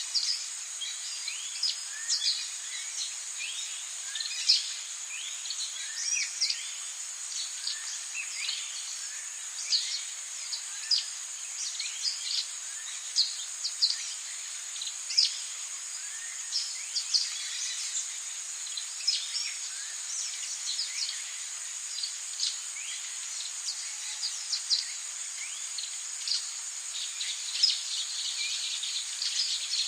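Rainforest ambience: a steady high-pitched insect drone with many short chirping calls overlapping irregularly, several a second, many sliding downward in pitch.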